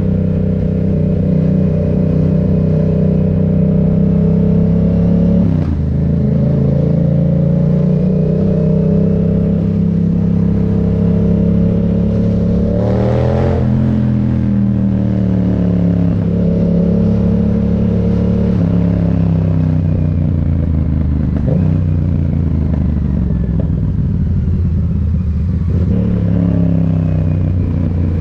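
Yamaha MT-07 parallel-twin engine running under way, holding steady revs with gear changes: the pitch drops about five and a half seconds in, and about halfway through it rises quickly and falls back, with more pitch changes later on.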